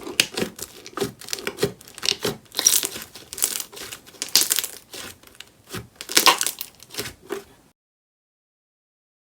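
Crunchy bead-filled slime being squeezed and pressed by hand, giving irregular crackling, crunching and popping. It cuts off abruptly about seven and a half seconds in.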